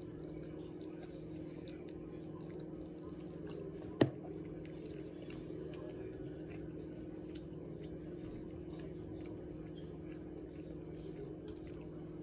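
Close-up chewing and wet mouth sounds of someone eating a barbecue rib and soft white bread, over a steady low hum. One sharp click about four seconds in.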